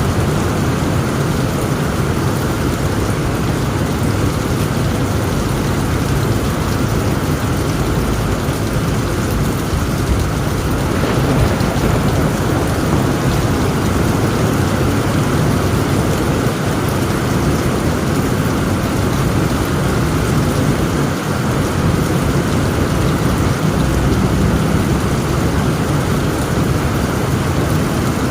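Heavy rain drumming steadily on a tent roof, with a low rumble of thunder underneath. A brief sharper patter stands out about eleven seconds in.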